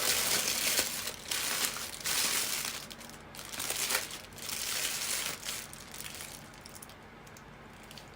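Crinkling of a burger wrapper and crunching bites into a fried shrimp burger, close to the microphone, in a run of noisy bursts that die down over the last couple of seconds.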